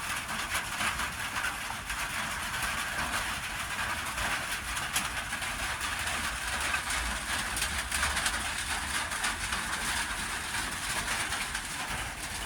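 Rain falling steadily on an iron sheet roof: a continuous dense patter.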